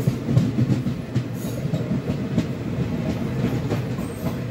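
Locomotive-hauled passenger train running on rails, heard from one of its coaches: a steady low rumble of wheels on track with scattered clicks and knocks.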